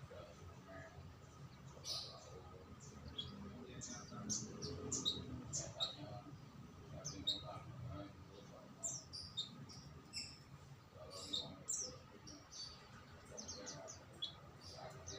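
Songbirds chirping: many short, high, quickly falling chirps, scattered irregularly and bunched most thickly in the middle and latter part.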